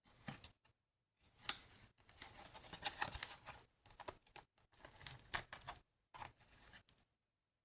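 Paper and card pages of a handmade junk journal being handled and turned: a string of short rustles and soft scrapes, with brief gaps between them.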